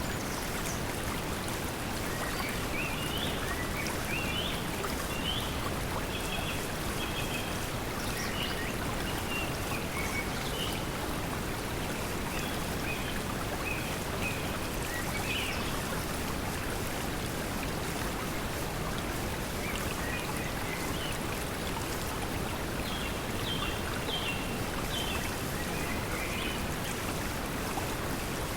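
Steady pink noise blended with flowing stream water, with birds chirping in short scattered phrases now and then.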